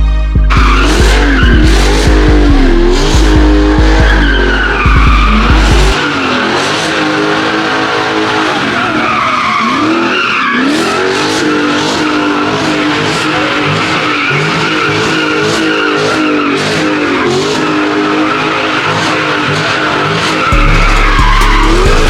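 A car engine revving up and down, held at high revs, with tyres squealing in a burnout or drift. A music beat with heavy bass plays under it, drops out about six seconds in and returns near the end.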